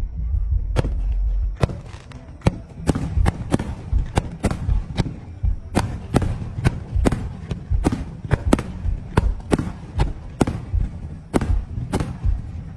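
Fireworks display: shells bursting in quick, irregular succession, about two to three sharp bangs a second, over a continuous low rumble.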